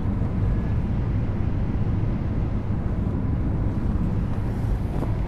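Airliner cabin noise during landing: a steady rumble of engines and rushing air, heard from inside the cabin, heaviest in the low end.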